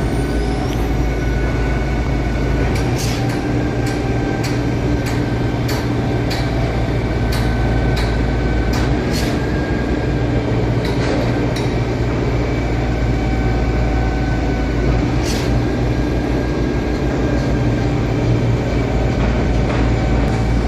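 Concrete boom pump truck running: a steady heavy engine drone with a low rumble. A run of sharp knocks comes at about one and a half a second through the first half, with a few more later.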